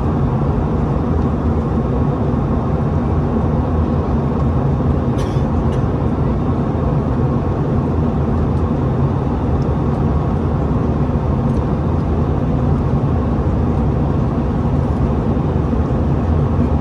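Steady low rumble of an Airbus A321-211's CFM56 engines, heard from inside the passenger cabin, with a brief click about five seconds in.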